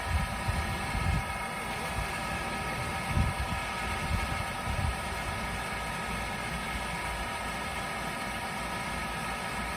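Steady mechanical drone made of several held tones, running unchanged throughout. A few irregular low thumps come in the first five seconds.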